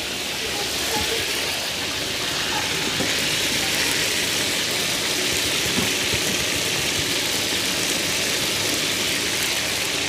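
Porcini mushrooms frying in a hot pan, a loud, steady sizzle.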